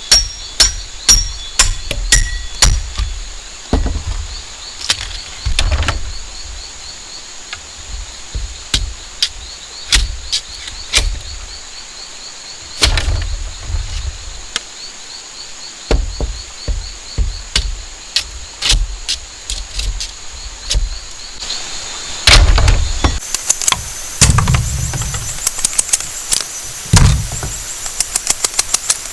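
Irregular knocking and chopping on bamboo, some strikes heavier than others. Behind it a steady high trilling continues, and it shifts higher in pitch about 23 seconds in.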